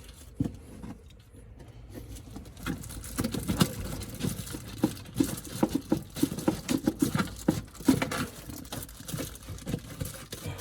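Hands handling a hair dryer's packaging and plastic parts: a quick, irregular run of light taps, clicks and rustling.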